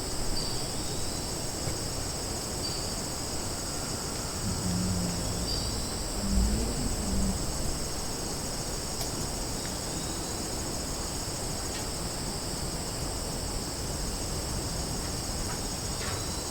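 Summer forest ambience: a steady high-pitched chorus of insects, with a few short bird chirps. A brief low sound rises out of the background near the middle.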